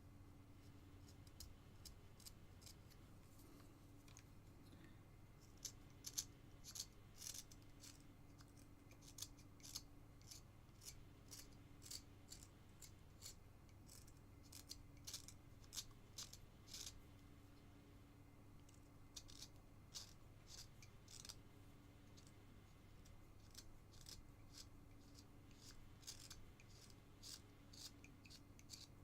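Carving knife shaving basswood in many short, irregular slicing strokes, each a brief crisp scrape, as the edge of the carving is rounded off. A faint steady low hum runs underneath.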